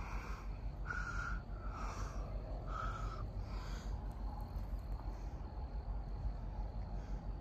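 A bird calling a short note over and over, about once a second, stopping about four seconds in. After that a faint steady high insect drone carries on, over a steady low rumble of wind.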